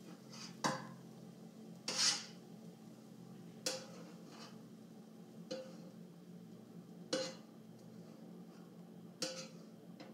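A spatula scraping and knocking against a wok as fried rice is scooped out, six separate strokes a second or two apart, over a steady low hum.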